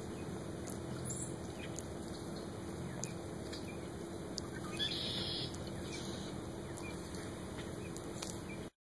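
Desert tortoise biting and chewing dandelion greens: scattered faint crunching clicks over a steady background hiss, with a brighter rustle about five seconds in.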